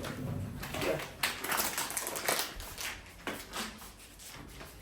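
Crinkly mochi packaging being handled as it is opened, in short, irregular rustles.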